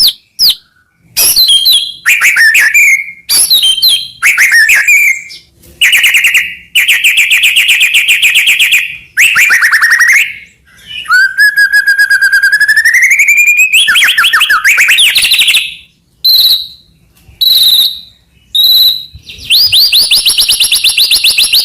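White-rumped shama (murai batu) singing a loud, varied song of fast rattling trills and ringing whistled notes in short phrases, separated by brief pauses. About halfway through there is a slow rising whistle.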